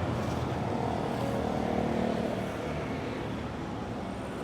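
City street traffic: a steady wash of road noise from passing cars, easing down gradually as a louder vehicle moves away.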